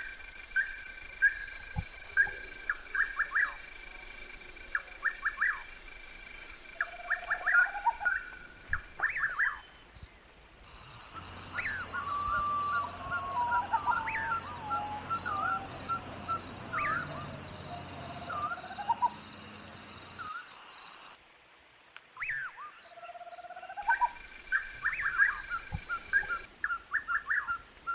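Wild birds calling: repeated short chirps and lower downward-sliding whistles over a steady high-pitched drone. The sound drops away abruptly a few times, near 10, 21 and 24 seconds in.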